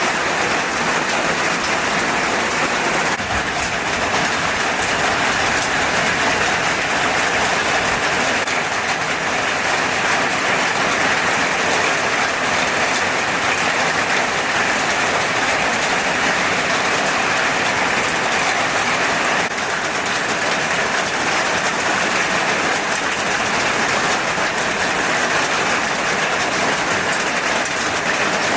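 Food frying in hot oil, a steady, even sizzle.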